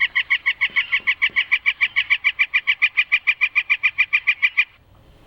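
Northern flicker giving its long call, a rapid, even series of loud 'wik' notes at about seven a second, which stops abruptly near the end.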